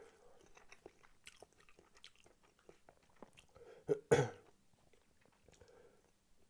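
Close-up mouth sounds of chewing spicy tteokbokki rice cakes: soft, sticky chewing with small clicks. About four seconds in comes a short, loud vocal burst, like a brief cough or sharp breath.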